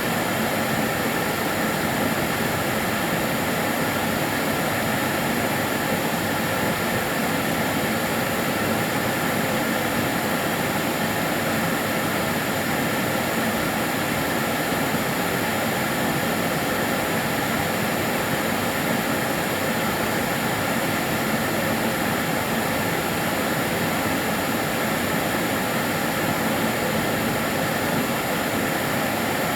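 Karcher DS 6 Premium water-filter vacuum cleaner running steadily, a constant whooshing motor and airflow noise with a faint whine held on one pitch.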